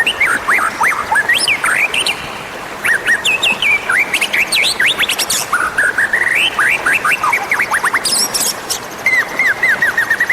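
White-rumped shama (murai batu) singing: quick runs of whistled notes sweeping up and down, with a couple of short pauses and a burst of high, thin notes about eight seconds in.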